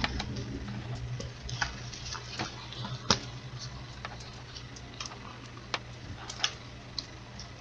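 Plastic Lego Duplo pieces being handled, giving a scattered series of light, irregular clicks and taps over a low steady hum.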